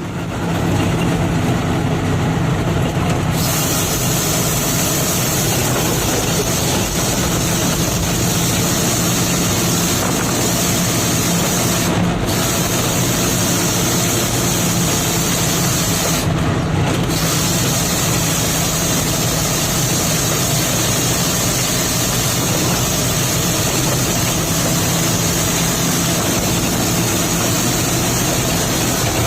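Nissan TZA 520 dump truck's diesel engine running steadily, loud and unbroken, with a constant low hum.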